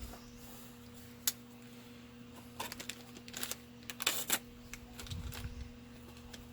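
Hands searching among tools and small parts on a workbench: scattered light clicks and knocks, bunched more closely about four seconds in, over a steady low hum.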